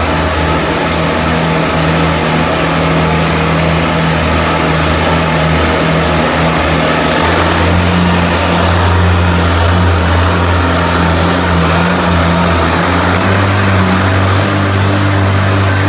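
Antique pulling tractor's engine running hard and steady under load during a pull, its pitch creeping up a little as it goes, with a wide hiss over it.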